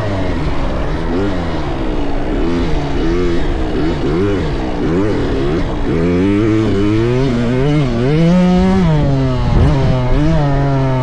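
Motocross dirt bike engines revving up and down in quick rises and falls as the throttle opens and closes, more than one engine at a time. From about six seconds in, a steadier engine note holds underneath.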